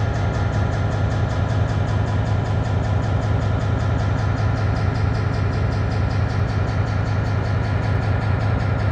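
Diesel locomotive engine running steadily close by, a loud, even low hum.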